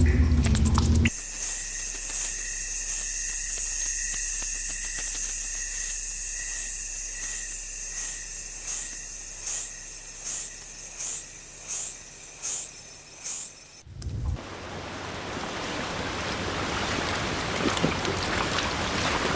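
Forest ambience: a steady, high-pitched insect chorus with a repeated call about every three-quarters of a second. It cuts off suddenly about 14 seconds in, and a steady rushing noise takes over and slowly grows louder.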